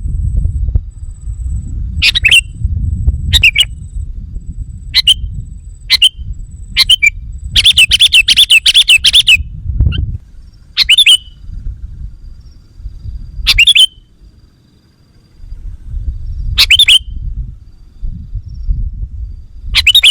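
Sooty-headed bulbul (kutilang) giving short, bright chirping calls, one every second or two, with a quick chattering run of calls about a third of the way in. A low rumble runs underneath.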